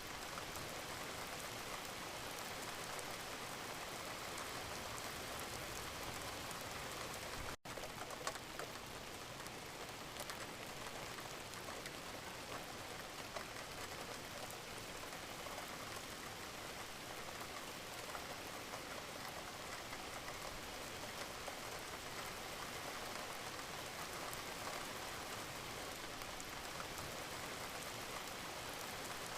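Steady gentle rain: an even hiss of rainfall with scattered, slightly louder drop ticks. It cuts out for an instant about seven seconds in.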